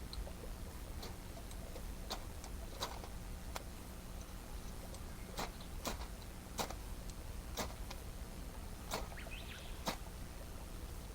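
Wood campfire crackling, with irregular sharp pops and snaps every second or so over a steady low rumble.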